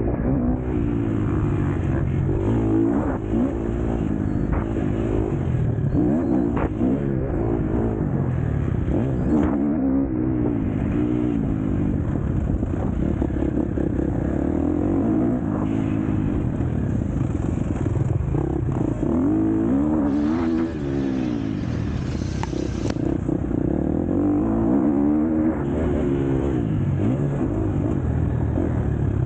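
KTM SX-F four-stroke motocross bike engine being ridden hard, revving up and falling back again and again as the throttle is opened and shut and the gears change.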